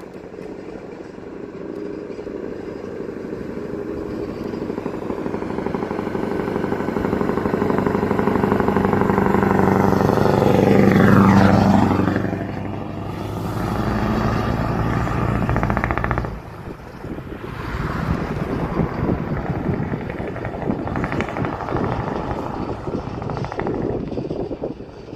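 Scania truck engine coming closer and getting steadily louder. It passes close about eleven seconds in, with a sweeping change in tone, then fades. After about sixteen seconds a rougher engine and road noise follows.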